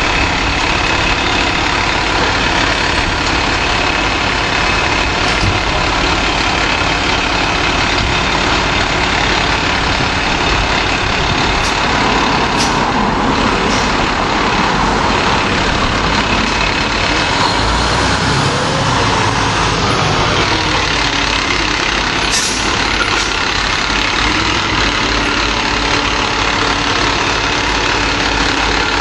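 Fire engine's diesel engine running steadily, with no siren. Twice partway through there is a short hiss.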